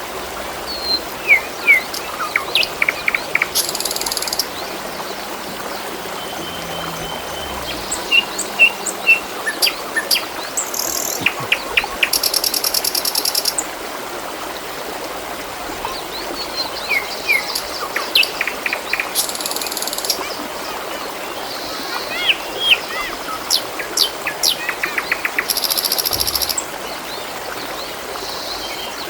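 Trickling water running steadily, with small birds chirping, calling in short gliding notes and giving buzzy trills over it in repeated bursts.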